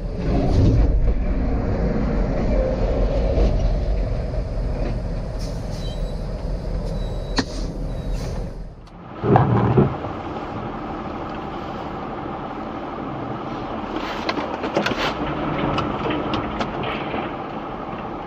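Vehicle driving noise with a steady low rumble. It drops away briefly about nine seconds in, and then a short loud knock is followed by more steady road noise.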